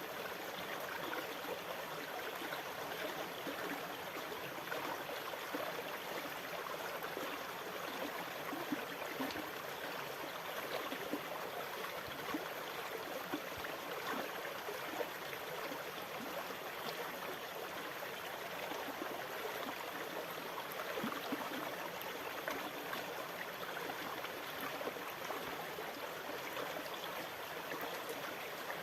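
Sea water washing and trickling as a steady, even rush with a fine crackle, with no distinct wave surges.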